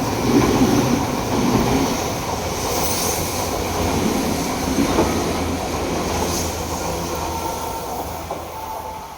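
Odakyu electric commuter train running past over the level crossing: steady rumble with wheels clattering over the rail joints and some wheel squeal, fading away near the end as it moves off.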